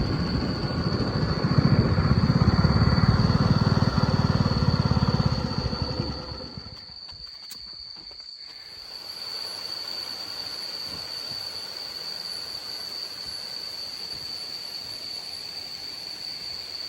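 A motor vehicle running with rumbling road noise for about six seconds, then an abrupt change to quieter outdoor background. Insects drone at one steady high pitch throughout.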